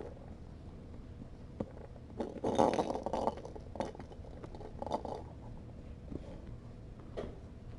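Soft rustling of fabric with a few light taps as kittens are handled and shift about. The rustling is loudest about two and a half to three and a half seconds in, with a shorter burst near five seconds.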